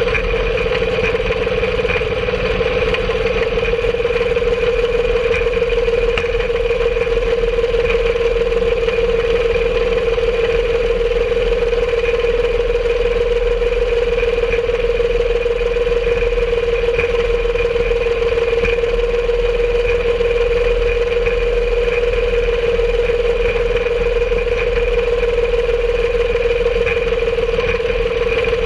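Home-made rail cart running along the track, its small engine giving a steady, unchanging drone.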